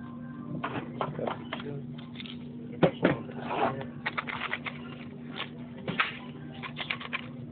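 A steady low hum with irregular clicks, taps and short knocks scattered through it, the sharpest about three seconds in and again about six seconds in.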